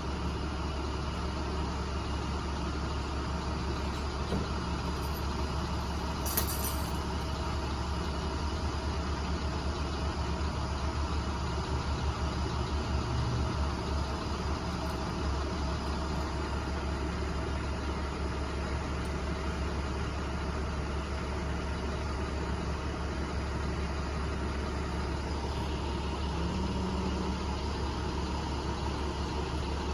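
Box truck's engine idling steadily, a low even hum, with a brief sharp click about six seconds in.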